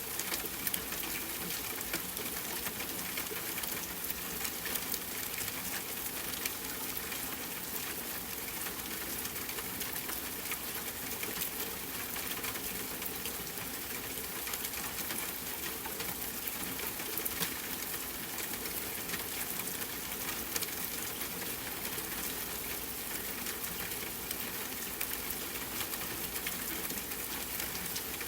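Steady rain, a dense even patter of drops with no let-up.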